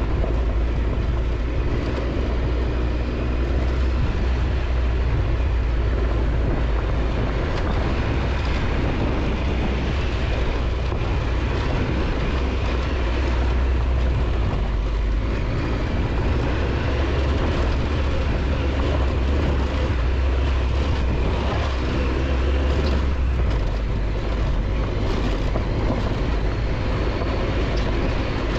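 Triumph Tiger 1200 XCX motorcycle's three-cylinder engine running steadily under way on a rough dirt road, mixed with continuous deep road and wind rumble.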